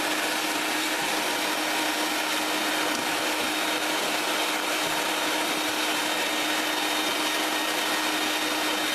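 Small handheld vacuum running steadily with a constant whine, sucking plastic shavings out of a metal ammo can.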